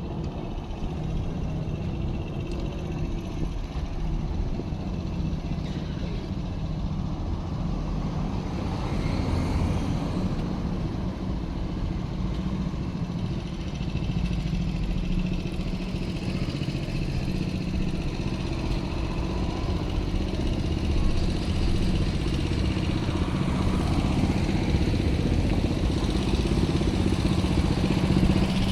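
An engine running steadily with a low hum, growing slowly louder toward the end.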